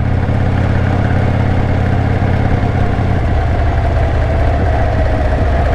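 Motorcycle engine running under way with rushing wind noise; the engine note changes about three seconds in.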